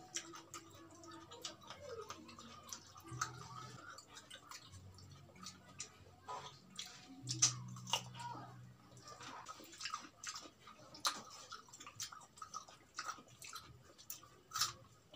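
Close-miked eating sounds: crisp crunching bites of raw cucumber and wet chewing of fried chicken, many short sharp clicks and smacks scattered throughout. A low steady hum comes and goes underneath.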